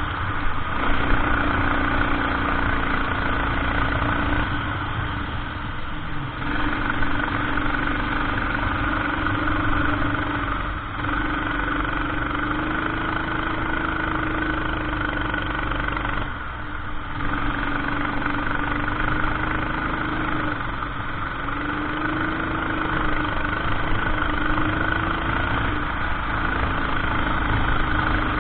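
Go-kart engine running at race pace. Its note climbs steadily along each straight, then drops off sharply as the throttle is lifted for a corner, about every five seconds.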